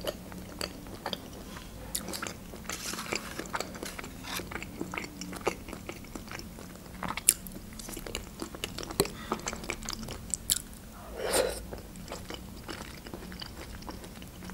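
Close-miked mouth sounds of a woman chewing a soft, creamy baked mushroom julienne: many small wet smacks and clicks, with one louder, lower sound about eleven seconds in.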